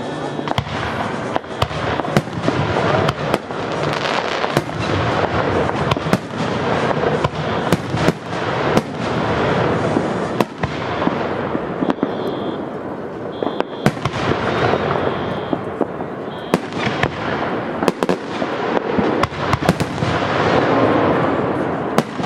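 Aerial firework shells bursting overhead in a dense, irregular barrage of bangs, several a second, over a continuous din of the display.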